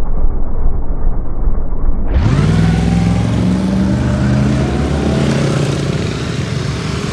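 Muffled low rumble, then about two seconds in a clearer motorcycle engine sound that rises in pitch and settles into steady running.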